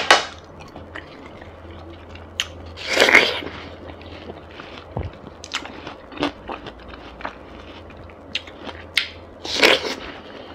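Close-miked eating sounds: chewing and biting into watermelon, with many small wet mouth clicks and three louder crunchy bites, one at the start, one about three seconds in and one near the end.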